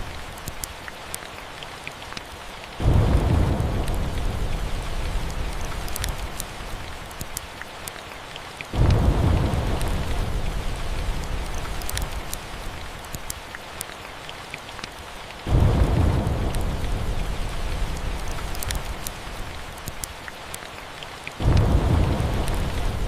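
Steady rain with low thunder rumbles that start suddenly about every six seconds, four times, each fading slowly. Small sharp crackles from a wood fire are scattered through it.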